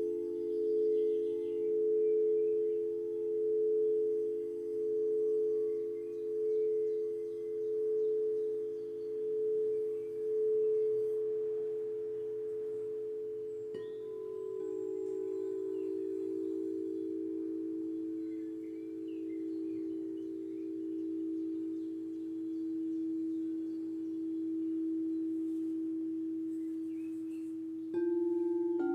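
Singing bowls ringing, their long tones swelling and fading in a slow, even pulse. A new bowl tone comes in about halfway through and another near the end. Faint bird chirps sound behind them.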